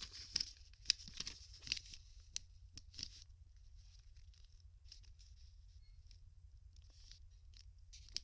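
A sheet of paper being folded and creased by hand, giving crisp rustles and crinkles. They come thickly for the first three seconds, then turn faint and occasional.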